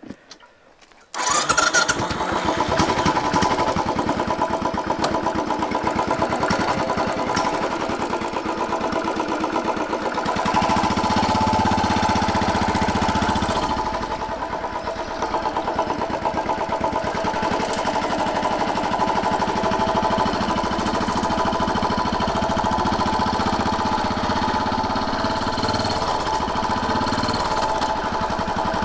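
Royal Enfield Bullet 500's air-cooled single-cylinder four-stroke engine starting about a second in, then running steadily with a rapid, even beat of firing pulses; it gets louder for a few seconds around a third of the way through.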